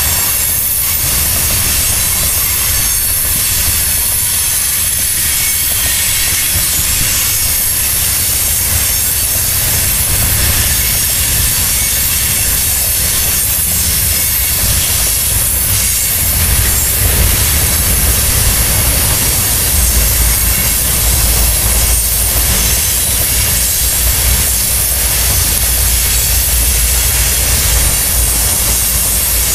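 Iron ore hopper cars rolling past: the steady rumble of steel wheels on rail, with clicks at the rail joints and a thin high squeal and hiss from the wheels.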